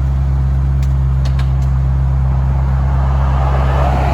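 Car engine running steadily at low revs, a constant low drone with no revving, as the car is driven slowly off a trailer.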